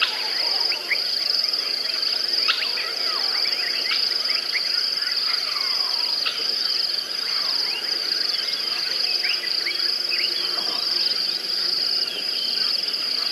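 Natural ambience: a steady, high-pitched drone of insects, with many short bird chirps and whistles scattered over it.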